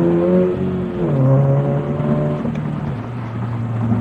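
2022 Subaru BRZ's FA24 flat-four running through an aftermarket cat-back exhaust while driving, holding a steady note. About a second in the note briefly dips and comes back, and near the end the revs drop to a lower steady drone.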